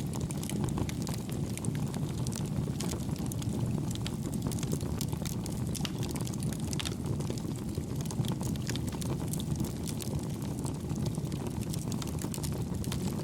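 Campfire burning with a steady low rush of flame and a constant scatter of small, soft crackles and pops from the wood.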